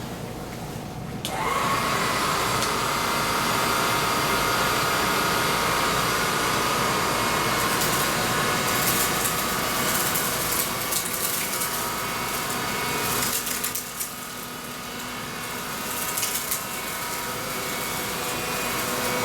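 Oreck AV-701B cordless stick vacuum switching on about a second in, its motor whine rising to speed and then running steadily while it picks up sand, with scattered crackles of grit in the middle stretch.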